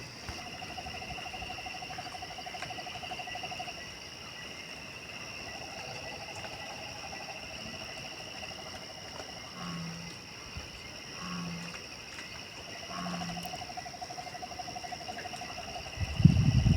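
Steady night chorus of calling insects and frogs, with several overlapping pulsing trills. Three short, low hoots come about a second and a half apart in the middle. A loud low thump sounds near the end.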